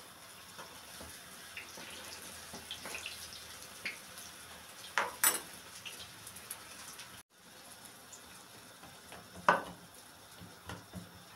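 Pişi dough frying in hot oil with a steady faint sizzle, and a few sharp clinks of a utensil against the pan: two about five seconds in and a louder one near the end.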